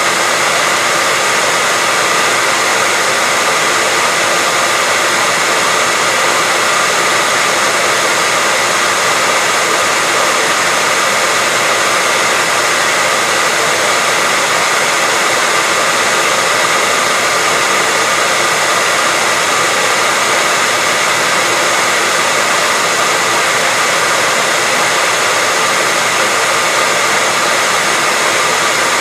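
Hair dryer blowing continuously, a steady whooshing noise with a faint constant whine, unchanging throughout.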